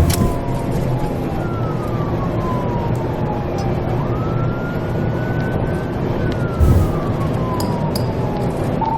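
Police car siren wailing in slow falling and rising sweeps over steady road and engine rumble, with a dull low thump about two-thirds of the way through.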